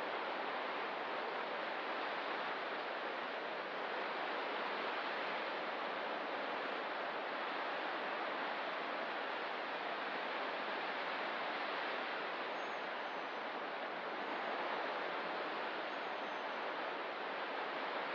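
Ocean surf on a rocky coast making a steady, even wash of noise, with a few faint high chirps in the second half.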